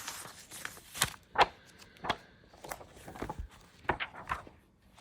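An old book being handled, its pages turning: papery rustles and soft taps, with a sharper knock about one and a half seconds in.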